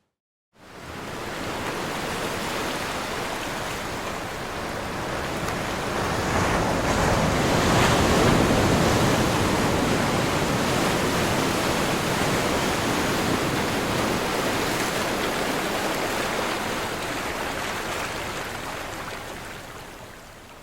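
Ocean surf breaking and washing in: a broad rush of water that comes up quickly out of a brief silence at the start, swells to its loudest about eight seconds in, then slowly fades away toward the end.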